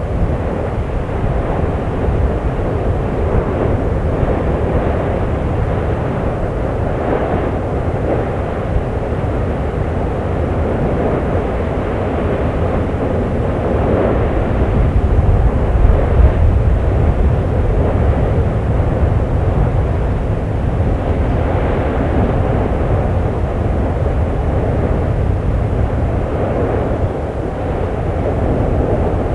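Erupting volcano's steady low roar and rumble, rising a little about halfway through.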